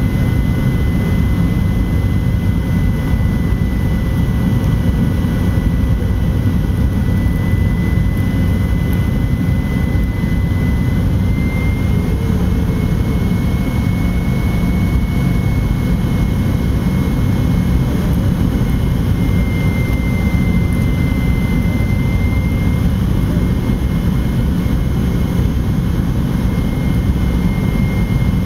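Fokker 70's Rolls-Royce Tay turbofan engines heard inside the passenger cabin: a steady heavy rumble with a thin high whine. The whine rises slightly about eleven seconds in, and dips and recovers around twenty seconds in.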